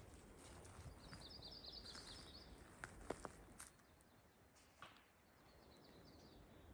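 A small bird singing faintly: a quick high trill about a second in and a fainter one near the end, with a few short clicks in between.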